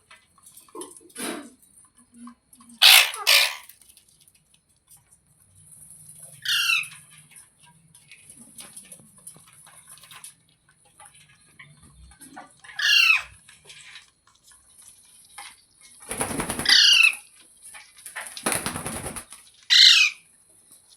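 A parrot giving a series of loud, harsh screeching calls, about half a dozen spaced a few seconds apart, some wavering and falling in pitch.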